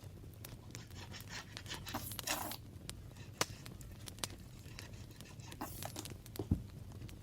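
Paper being handled in close-up: short rasps that sound like tearing or rubbing, mostly between about one and two and a half seconds in, with scattered light taps and a soft thump near the end.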